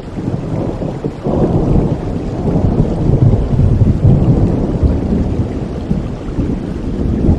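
Steady rain with a long roll of thunder that starts suddenly about a second in, rumbles loudest in the middle and slowly eases off.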